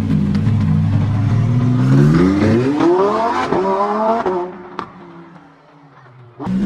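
A sports car's engine runs with a steady rumble, then is pushed hard: the revs climb steeply, break briefly for an upshift and climb again before the sound fades away. Near the end another car's engine note cuts in suddenly.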